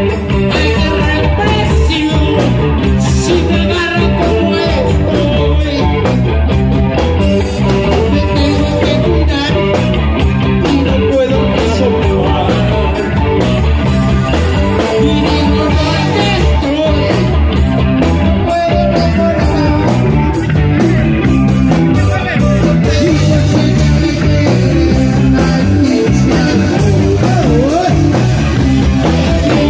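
Rock music played live with guitar and a male singer's voice, loud and continuous.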